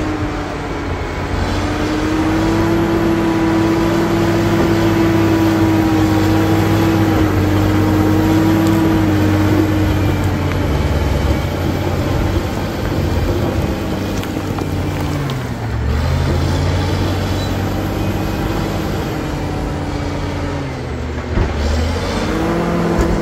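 Caterpillar D7G bulldozer's diesel engine running under load, holding a steady pitch and then dipping in pitch and recovering twice in the second half.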